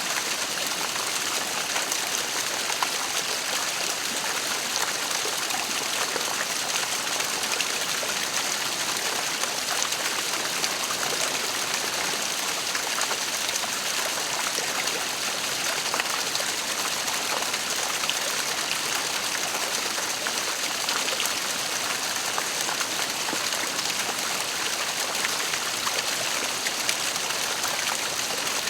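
Waterfall: falling water splashing and rushing in a steady, unbroken hiss.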